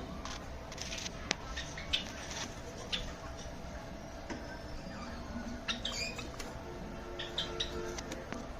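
Java sparrows giving short, scattered chirps and squeaks over a steady faint hum.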